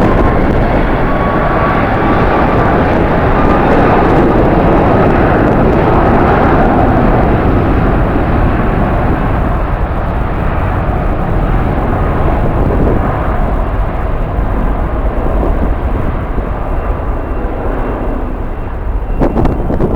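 Jet airliner's engines passing, a thin turbine whine rising in pitch over the first few seconds above a broad engine noise that swells and then slowly fades. Wind gusts on the microphone near the end.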